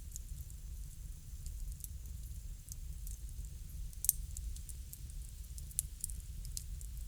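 Crackling bonfire: scattered sharp pops and snaps over a steady low rumble, with one louder pop about four seconds in.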